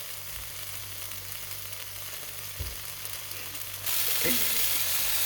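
Halved plum frying in hot peanut oil in a pan: a steady sizzle that gets louder about four seconds in, with a soft thump a little past the middle.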